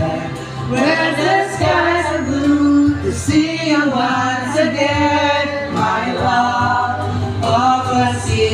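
Music with several voices singing together, men and women, over a steady bass.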